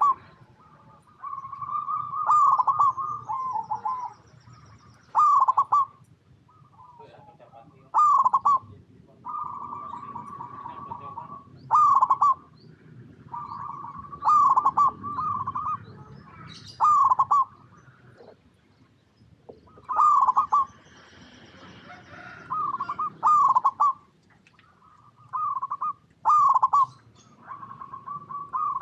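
Zebra dove (perkutut) song: repeated phrases of quick, trilling coos, some running on into a long held note, coming every second or few seconds throughout.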